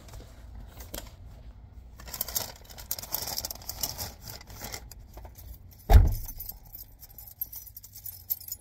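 Keys jingling with light handling clicks, and a single heavy low thump about six seconds in.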